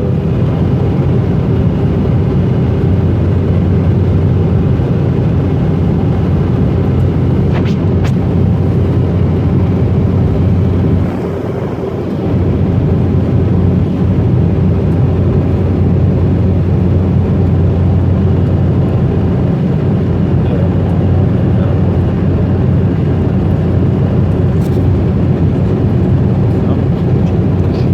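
Steady drone of an Embraer ERJ-190 in climb heard inside the passenger cabin: its GE CF34 turbofans' low hum mixed with airflow noise, dipping briefly about eleven seconds in.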